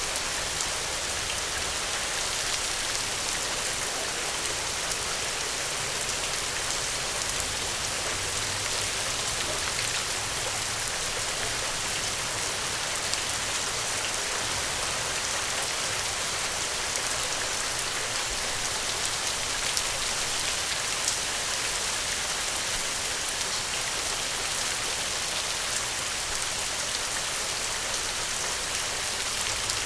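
Gentle rain falling steadily: an even hiss with scattered individual drop ticks.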